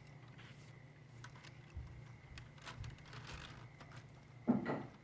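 Faint scattered clicks and taps of LEGO plastic pieces being handled, over a low steady hum, with one short louder sound about four and a half seconds in.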